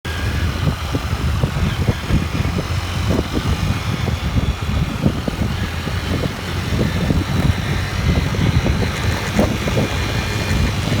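Motorbike riding noise: a steady low engine rumble mixed with irregular wind buffeting on the microphone.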